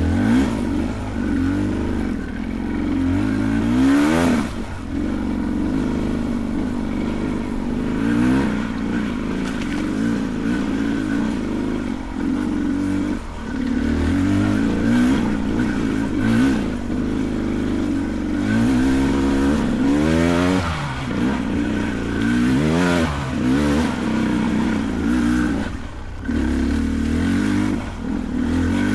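Beta 300 Race Edition two-stroke dirt bike engine working up a trail, its revs rising and falling again and again as the throttle is blipped, with several sharp rev climbs, the steepest around twenty seconds in.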